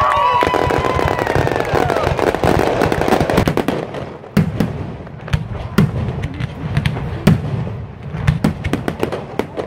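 Fireworks display: dense crackling for the first few seconds, then a string of sharp, irregularly spaced bangs as shells burst overhead.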